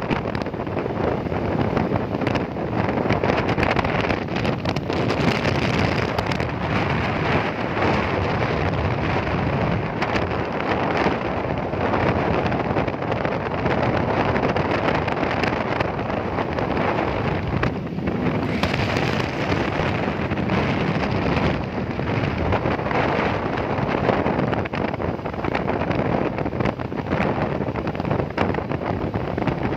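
Wind buffeting the microphone on a moving motorcycle: a steady, loud rushing noise with no break.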